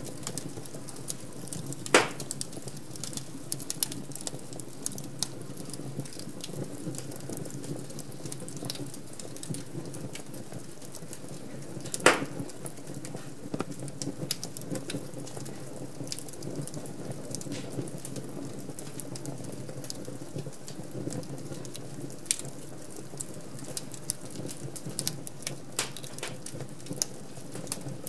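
Wood fire crackling in a fireplace: a steady low hiss of flames with scattered sharp crackles, and two louder pops about two seconds in and again about twelve seconds in.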